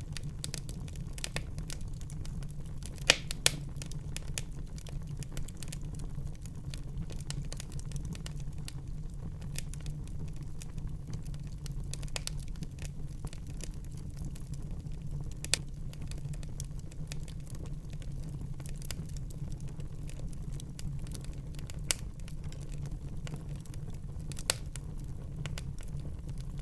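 Wood fire burning in a fireplace: a steady low rumble of flames with frequent small crackles and a few sharp, louder pops.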